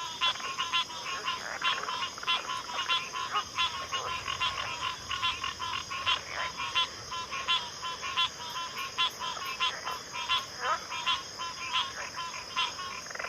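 Chorus of many frogs calling over one another, rapid repeated croaks and pulsed trills overlapping without a break, over a steady high-pitched hum.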